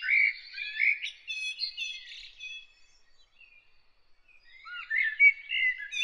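Small songbird singing in quick warbling phrases; one phrase trails off about two and a half seconds in, and another begins near the end.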